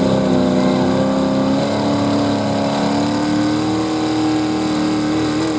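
Modified 4x4 pulling truck's engine running hard at high revs, its pitch holding steady and creeping slowly upward.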